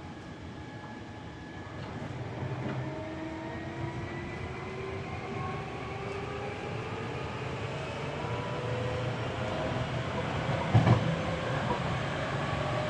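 Hankyu 7300 series field-chopper electric train heard from inside the car while it picks up speed. The whine of its DC compound traction motors and gears climbs steadily in pitch as the running noise grows louder. A short thump comes near the end.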